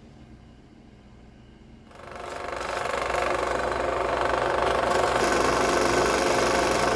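A power tool's electric motor starting about two seconds in, spinning up over about a second, then running steadily.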